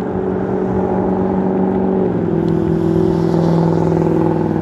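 A 5000-watt electric bike running, its motor and drivetrain giving a steady hum that drops a little in pitch about two seconds in.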